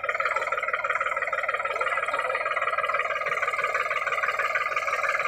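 Sonalika Sikandar tractor's diesel engine running steadily with a rapid, even pulse.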